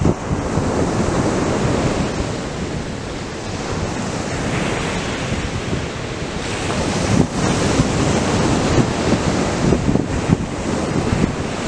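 Atlantic surf breaking and washing up the beach, a continuous roar with the wash swelling again in the second half, mixed with wind buffeting the microphone.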